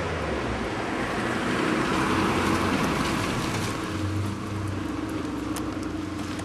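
Car engine running with a steady low hum, over general street noise, with a few faint ticks in the second half.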